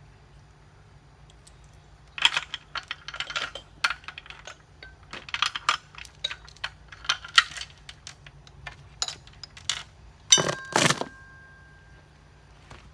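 Metal hand tools and engine parts clinking and tapping in irregular clusters of sharp clicks. Near the end, two heavier metal knocks leave a short ringing tone.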